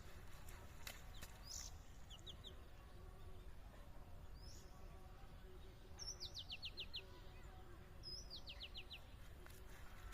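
A bird calling faintly: a few short chirps, then twice a quick run of about six notes falling in pitch, each run lasting about a second. A low background rumble runs underneath.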